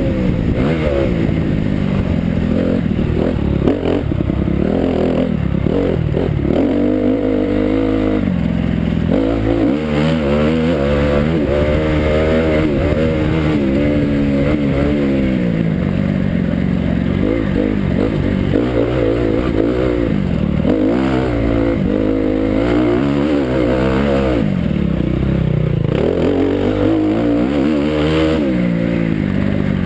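Motocross bike engine revving hard and easing off again and again as it is ridden round a muddy track, its pitch rising and falling every second or two.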